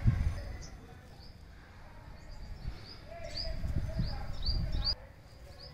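Small birds chirping: short, high, hooked chirps repeated about every half second to second. Under them is a low rumbling noise that comes and goes and stops abruptly about five seconds in.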